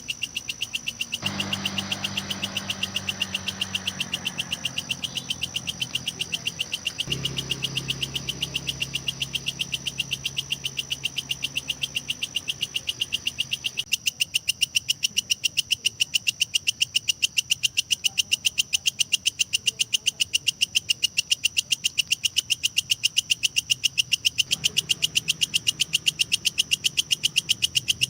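Belalang kecek (walang kecek) katydid calling: a fast, steady train of sharp, high-pitched chirping pulses, about five or six a second, with a faint low hum behind it at times.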